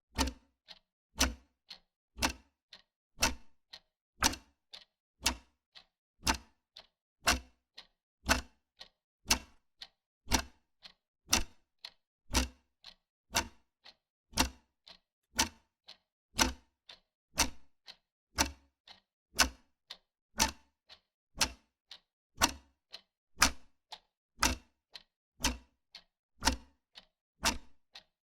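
Wall clock ticking steadily: sharp mechanical clicks about twice a second, alternating a louder tick with a softer tock.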